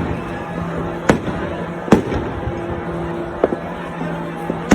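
Aerial fireworks going off, four sharp bangs roughly a second apart over a continuous crackling rumble of more distant bursts, with background music playing underneath.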